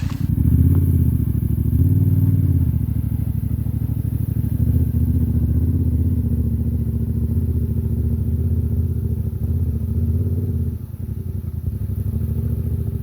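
Yamaha Ténéré 700's parallel-twin engine running under way, its revs rising and falling twice in the first few seconds, then pulling steadily, with a drop in level just before the end.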